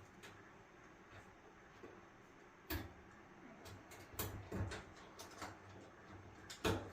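Scattered light knocks and clicks of dryer housing parts being handled and fitted into place, the loudest knock coming near the end.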